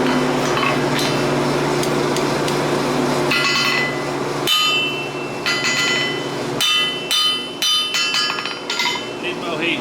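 Forge blower humming steadily, then from about three and a half seconds in a run of hammer blows on the hot axe head over the anvil, each strike ringing.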